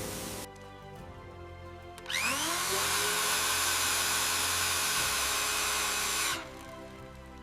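A hiss cuts off about half a second in. About two seconds in, a power tool spins up with a rising whine, runs steadily for about four seconds, then stops.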